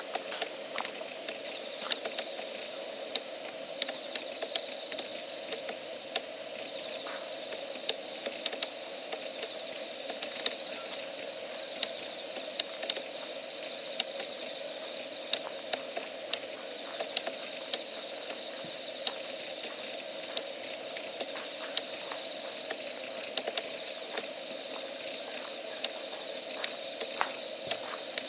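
Wood campfire burning, hissing with scattered crackles and small pops, over a steady high-pitched whine.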